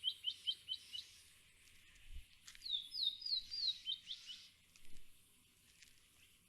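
A bird calling: two bursts of short, quick, falling whistled notes, the first at the start and the second about two and a half seconds in, over a faint outdoor background.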